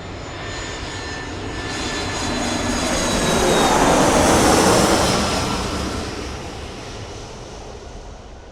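Jet airliner passing by: engine noise with a high whine builds to its loudest about four and a half seconds in, then fades away.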